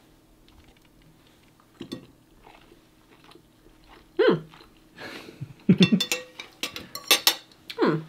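A person chewing a mouthful of baked fish fillet. The first few seconds are quiet; from about four seconds in come a few short hums that fall in pitch and a run of light clicks.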